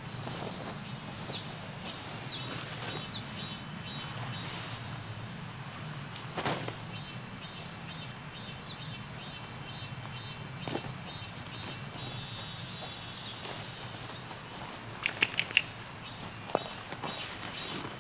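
Outdoor nature ambience: a steady low rush with a thin high whine over it, and a high chirping call repeating about twice a second for several seconds. About three quarters through, four quick sharp chirps are the loudest sounds.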